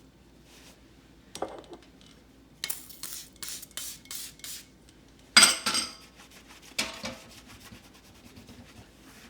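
Household objects being handled: a run of about five short rubbing or scraping strokes, then a sharp clatter a little past halfway and a smaller knock soon after.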